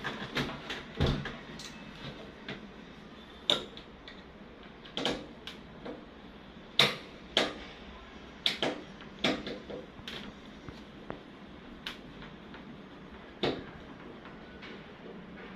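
Irregular sharp knocks and clicks, about fifteen of them at uneven intervals, as of hard parts or tools being handled while working on a washing machine.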